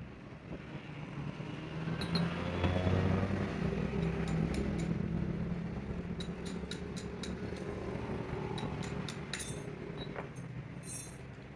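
A motor vehicle's engine passes by, swelling about two seconds in with a falling pitch and then slowly fading. Sharp light metal clicks and taps are scattered through the second half.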